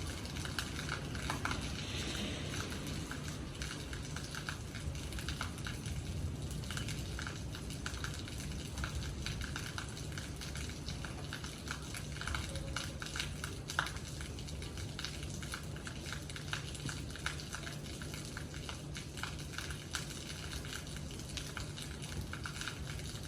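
Rain falling: a steady hiss of rain with many small irregular drop ticks and a low steady rumble beneath.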